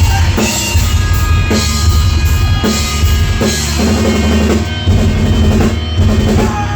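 Live rock band playing loud, with the full drum kit to the fore: heavy bass drum and snare hits under sustained, held chords.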